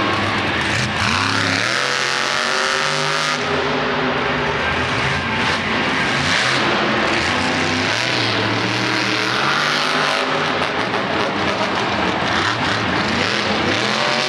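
Monster truck's supercharged V8 engine revving hard, its pitch climbing and dropping again several times as the truck is driven.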